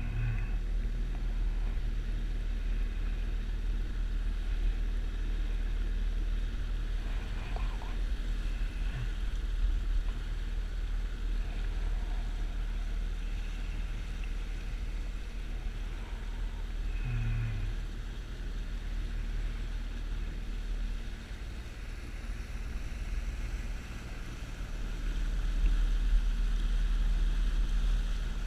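An engine running steadily with a low rumble, with a few brief low knocks.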